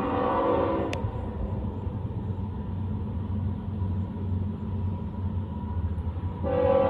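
Train horn sounding for a grade crossing: a chord of steady tones that cuts off about a second in, then the low rumble of the train, and the horn starting again near the end.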